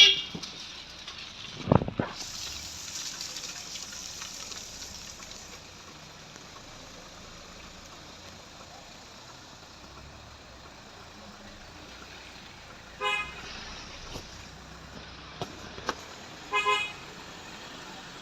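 Vehicle horn tooting in short blasts over steady road and engine noise: once at the start, again about 13 seconds in, and a double toot near the end. A sharp thump comes about two seconds in.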